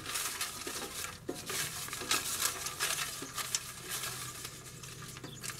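Folded paper slips rustling and shuffling as a hand stirs through them inside an ammunition box, in a run of quick, irregular scrapes.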